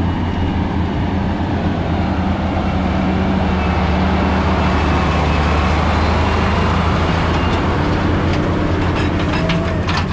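Heavy diesel dump truck with a trailer running close by, its engine drone swelling toward the middle. A run of rattling knocks comes near the end.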